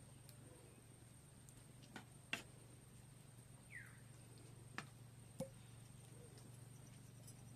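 Near silence with a steady low hum and a few faint, sharp clicks, the loudest about two and a half seconds in.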